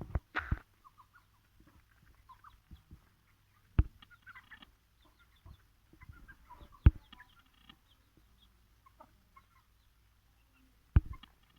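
Aseel chickens giving short, scattered clucks, broken by a few sharp thumps near the start, about four and seven seconds in, and near the end.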